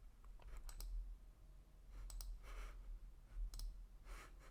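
A few faint, scattered clicks over a low steady hum.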